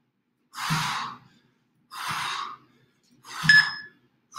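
A person's heavy, forceful exhalations during jump squats, three of them about a second and a half apart. Near the end a short electronic beep sounds, like an interval timer counting down to the rest.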